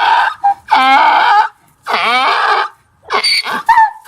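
Donkey braying: several loud calls in quick succession with short gaps, breaking into a run of shorter, choppy calls near the end.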